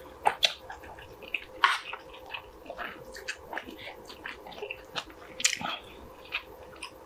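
Close-miked chewing of a mouthful of braised kimchi, saury and rice: a string of short, irregular mouth clicks and smacks, several a second, with a few louder ones.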